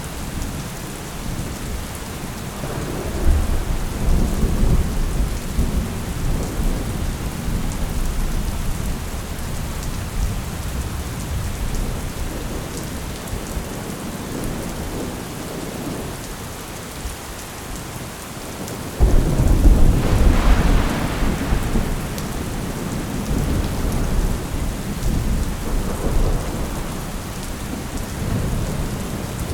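Thunderstorm: steady heavy rain with rolling thunder. A long rumble builds a few seconds in, and about two-thirds of the way through a sudden loud thunderclap breaks and rumbles on for several seconds.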